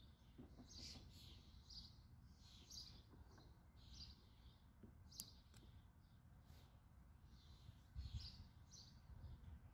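Faint birdsong: several birds chirping over and over, with short high chirps every second or so, over a low steady background rumble. A sharp click about five seconds in.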